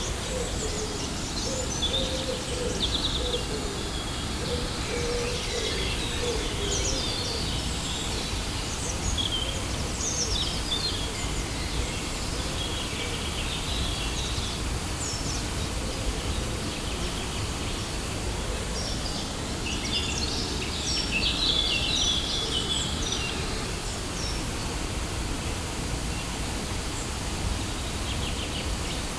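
Waterfall rushing steadily, with birds chirping over it in scattered bursts, busiest over the first third and again a little past the middle.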